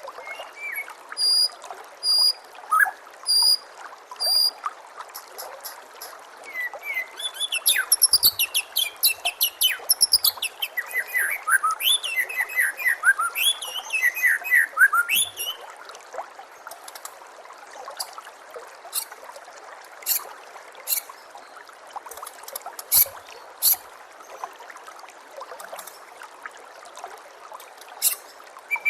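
White-rumped shama (murai batu) singing over a steady trickle of running water. A few short repeated high notes open it, then a fast, varied run of whistled phrases fills the middle, followed by scattered sharp clicking notes.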